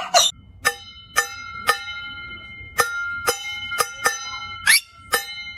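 A small metal bell struck again and again, about twice a second in two runs, each strike ringing on at the same pitch. A short rising squeak comes about three quarters of the way through.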